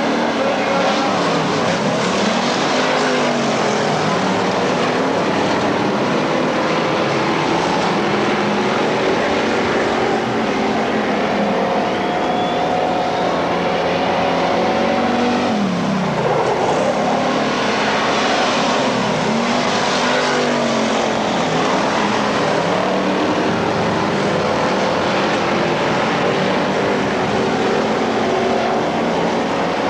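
Several dirt-track race cars running laps, a continuous pack of engines. Pitch sweeps up and down repeatedly as cars pass close by and rev through the turns.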